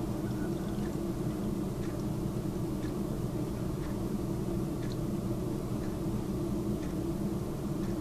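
Last of the old compressor oil dripping from the drain hole into a plastic bowl, faint drips about once a second, over a steady low hum.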